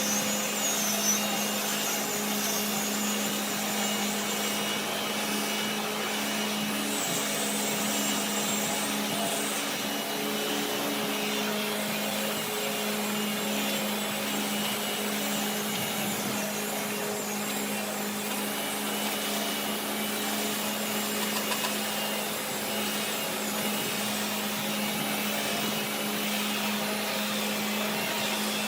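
A woodworking machine running steadily with a constant hum, with a faint high whine that comes and goes in the first ten seconds.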